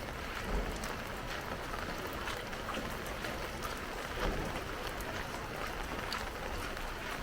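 Heavy rain falling, with a steady hiss and many small drops pattering and splashing on surfaces. Two brief low thumps come about half a second in and about four seconds in.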